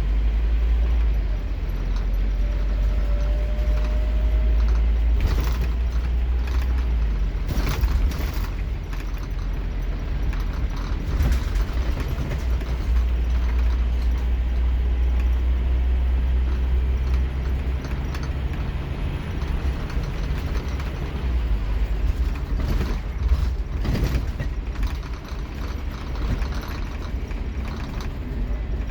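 Diesel engine of a Scania K230UB Omnilink single-deck bus pulling hard under acceleration, heard from inside the bus, with a deep drone that shifts as the gears change. Sharp knocks and rattles from the bus interior come through now and then.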